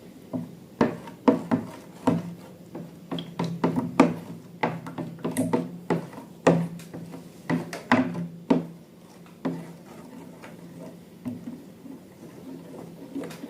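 Irregular light knocks and clicks of objects being handled, coming thick for the first eight or nine seconds and then thinning out, over a steady low hum.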